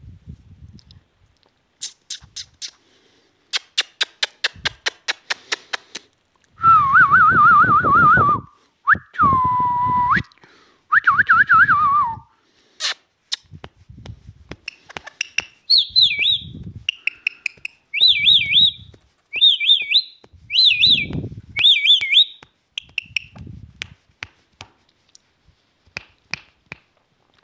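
Pet parrot clicking rapidly, then giving warbling whistles, then a run of high, trilling whistles repeated about once a second.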